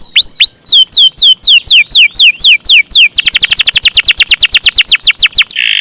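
Canary singing loudly: a run of repeated down-sweeping notes, about four a second, that breaks about three seconds in into a fast rolling trill of about ten notes a second, with a brief harsher note near the end.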